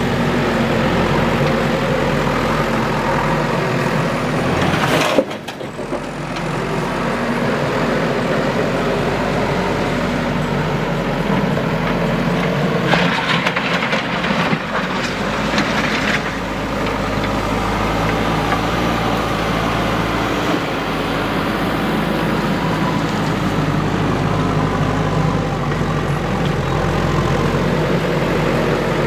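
Heavy diesel earthmoving machinery running steadily under work. There is a sharp knock about five seconds in, after which the sound drops briefly, and a few seconds of hissing noise near the middle.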